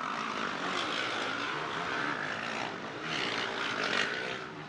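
Motocross bike engines running hard on the race track, a steady high-pitched engine drone.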